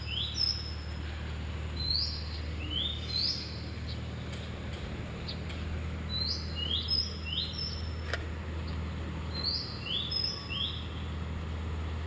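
A small bird chirping: short notes that sweep upward and level off, in quick clusters of two to four, repeated every couple of seconds over a steady low hum. One sharp click about eight seconds in.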